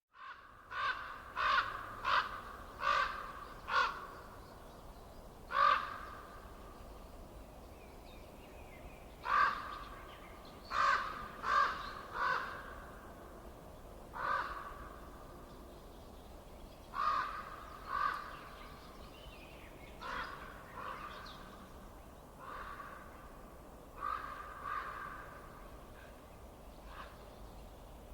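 A bird calling repeatedly, about fifteen short calls in runs of two to five, over a faint steady low hiss.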